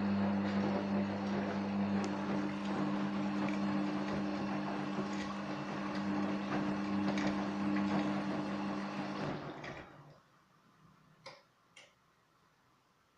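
Gorenje WA50060 washing machine's drain pump running with a steady hum and rushing water, shutting off about nine and a half seconds in; two sharp clicks follow, a little over a second later.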